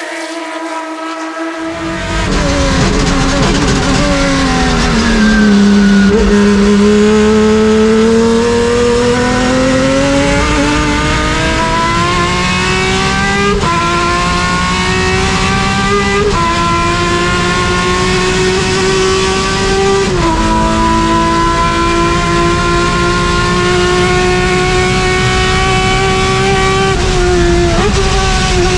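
Race car engine at full throttle, pulling through the gears: its pitch drops and then climbs slowly, with a brief dip at each upshift, four of them through the stretch. A quieter engine sound is heard in the first two seconds before it.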